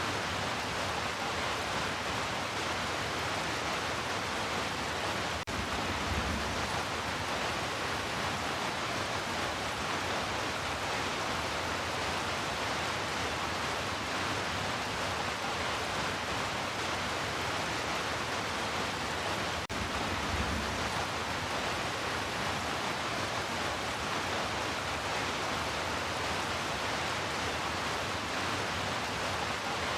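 Heavy rain falling steadily, an even hiss with no let-up. Twice, about fourteen seconds apart, a brief low rumble swells under it.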